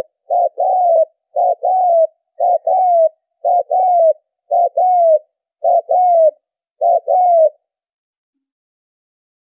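Spotted dove cooing: seven two-part calls, about one a second, each a short note followed by a longer falling coo. It then stops for the last couple of seconds.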